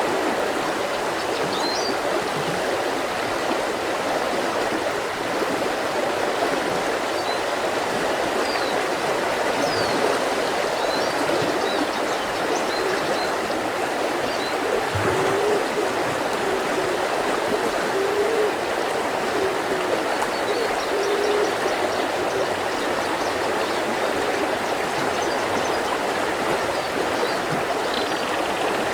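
Mountain river flowing steadily over rocks, with small birds giving short chirps now and then and a few brief low notes in the middle.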